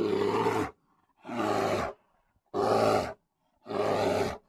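A bear calling four times in a row, each call short and low-pitched, about a second and a quarter apart.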